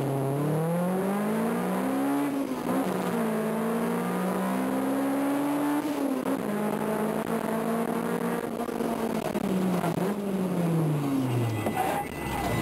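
The stock B16A four-cylinder engine of a 1992 Honda Civic EG6, heard from inside the cabin, rising in pitch under acceleration, then dropping sharply at gear changes about two and six seconds in. Near the end its pitch falls steadily as the car slows.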